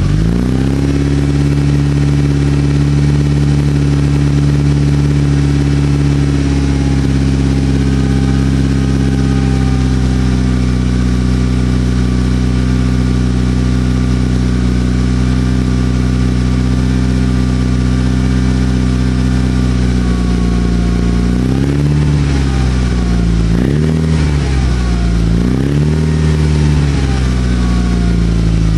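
Mitsubishi Lancer Evolution VIII MR's forged, turbocharged 4G63 four-cylinder through a Miltek exhaust, free-revving while stationary: it rises at the start and is held at a steady raised engine speed for about twenty seconds, then is blipped up and down three times near the end before settling.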